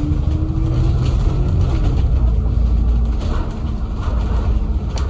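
Bus heard from inside the passenger cabin while moving: a steady low engine and road rumble, with a faint drivetrain whine that rises slightly early on and then holds steady.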